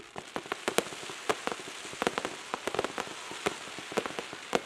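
Crackling fireworks: a dense stream of sharp pops and crackles over a steady hiss, which starts suddenly and carries on throughout.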